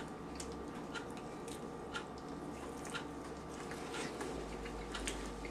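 Faint chewing of a sauced chicken wing: soft, irregular wet clicks from the mouth over a steady low hum.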